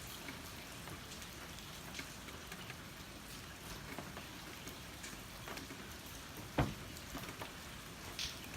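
Typhoon rain falling steadily, with scattered drops ticking on hard surfaces and one louder thump about two-thirds of the way through.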